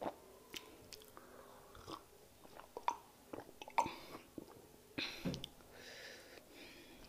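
Close-miked mouth sounds of eating: wet chewing and lip smacks on soft fufu and chicken in peanut soup, with scattered sharp smacks. There is a sip from a small glass midway.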